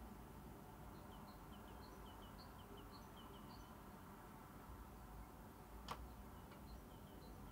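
Near-silent room tone with faint, short high bird chirps in quick runs, and a single soft click about six seconds in.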